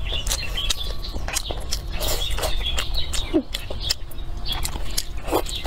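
Close-up chewing of a mouthful of rice and greens, with frequent small wet mouth clicks. Birds chirp steadily in the background.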